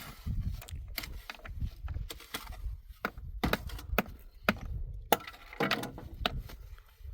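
Wood being chopped by hand: about a dozen sharp, irregular cracks and knocks, over a low rumble.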